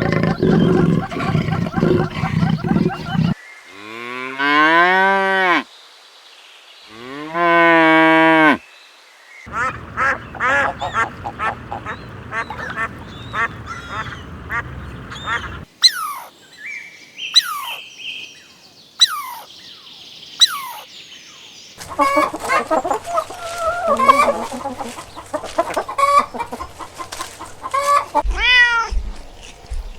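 A run of farm animal calls. Two long, wavering lowing calls like a cow's moo come first. They are followed by a flock of geese and ducks honking and quacking, a few sharp high falling calls, more honking, and arching meow-like calls near the end.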